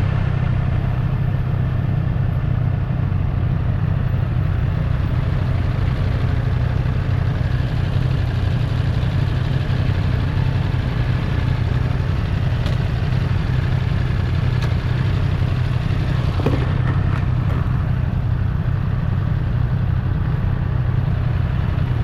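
2024 Triumph Street Triple's three-cylinder engine running at a steady, low speed without revving, with a few faint clicks about two-thirds of the way through.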